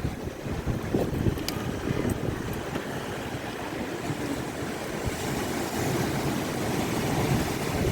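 Monsoon wind buffeting the microphone with a rough, gusting rumble over the wash of sea surf. The hiss of breaking waves grows brighter about five seconds in.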